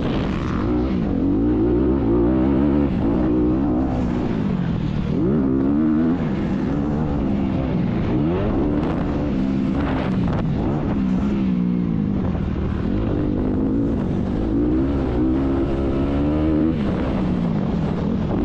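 Motocross dirt bike engine revving hard, its pitch repeatedly climbing and dropping every second or two as the throttle is opened and closed.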